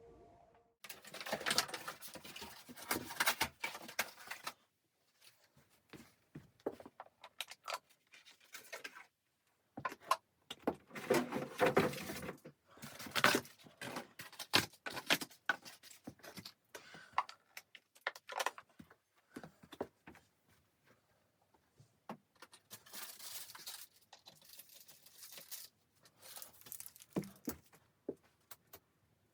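Rustling and clinking noises in three bursts of several seconds each, with quiet gaps between.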